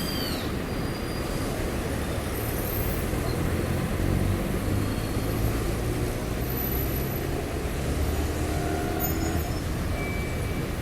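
Town-square ambience dominated by a steady low rumble of road traffic, with a vehicle engine running more strongly through the middle. There is a brief high chirp at the start.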